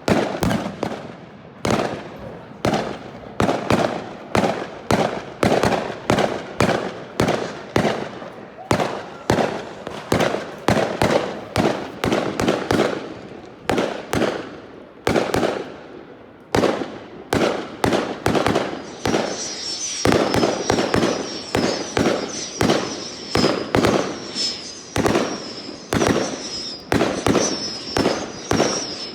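Fireworks display: a rapid, continuous barrage of sharp bangs, about one or two a second, each trailing off in a short crackle. From about two-thirds of the way in, a high wavering whistle repeats beneath the bangs.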